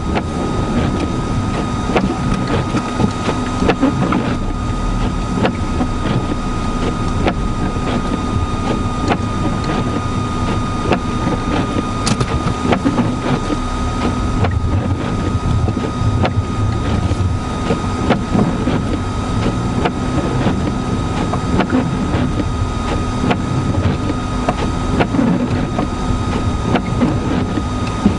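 Car engine running steadily while the car sits stuck in deep snow drifts, with a constant high whine over a low rumble and wind noise.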